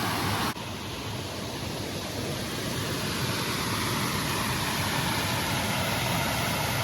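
Steady rush of a swollen creek's water pouring over small falls. About half a second in the sound drops suddenly, then carries on slightly quieter.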